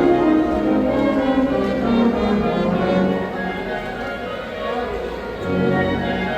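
A Mixe banda filarmónica, a wind band of brass and woodwinds, playing a piece together, softening a little about three seconds in and swelling again near the end.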